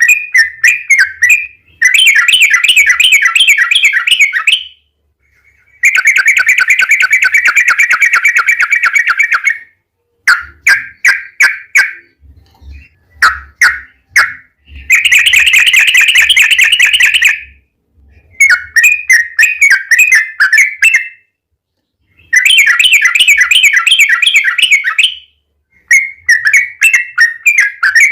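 Yellow-vented bulbul (trucukan) calling: loud phrases of fast, chattering repeated notes, each phrase lasting two to four seconds with short pauses between. These are the long rapid rolls used as a lure to get other trucukan calling.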